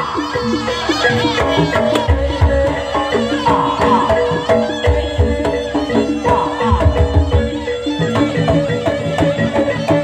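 Live jaranan music: a slompret (Javanese shawm) playing a wavering melody over a held tone, with kendang drum strokes and percussion beneath.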